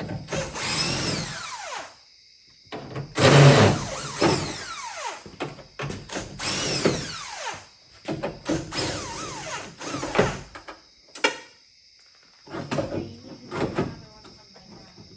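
A power tool or small electric motor running in about five short bursts of a second or two each, its pitch falling during each burst.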